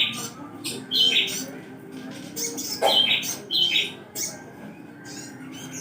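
Sogon (crested jay) calling: a run of short, sharp chattering notes, each dropping slightly in pitch, repeated about every second, four or five times.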